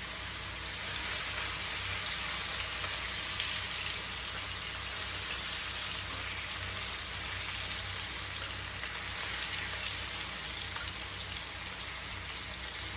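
Chicken pieces sizzling steadily in hot oil and curry powder as they brown, a constant frying hiss that swells slightly about a second in.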